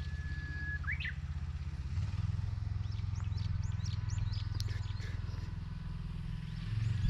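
Small engine of a mechanical vegetable transplanter running steadily, its note shifting about two seconds in and again near the end, with birds chirping over it.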